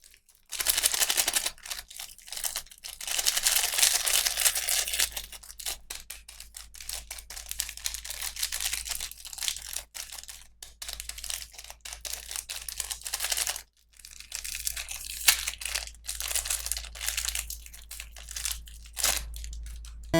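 Plastic packaging being crinkled and torn open by hand, a dense irregular crackling with sharp snaps, pausing briefly about three-quarters of the way through.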